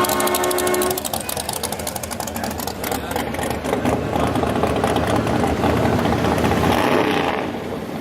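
Vehicle engines running as cars drive past, with a steady pitched tone in the first second; the sound eases off near the end.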